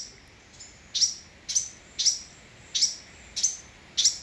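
Fledgling songbird chirping: a string of short, high chirps, each sweeping downward, about two a second and some in pairs.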